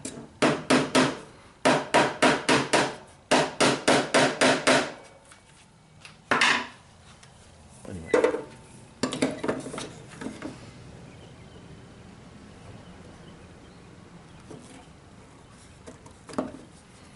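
Hammer tapping a small nail into plywood: three quick runs of light taps in the first five seconds, then a few scattered knocks, and it goes quiet about ten seconds in.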